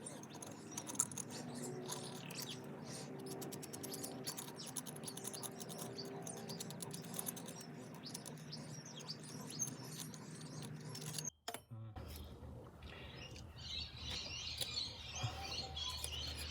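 Faint birds chirping in the background, with a steady low hum under them that stops at a cut about 11 seconds in; after the cut the chirping is clearer.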